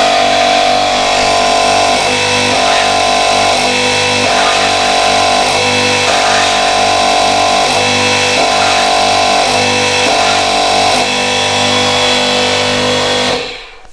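Ryobi electric pressure washer's motor and pump running with a steady pitched hum and a slight pulsing, cut off suddenly near the end. The motor turns and water passes, but the pump builds almost no pressure and the high-pressure hose only vibrates weakly.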